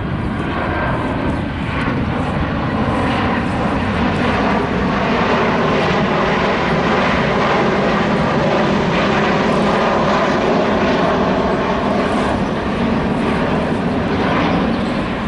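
Airliner engines running loud and steady as a plane passes close by, swelling gently toward the middle and easing off near the end.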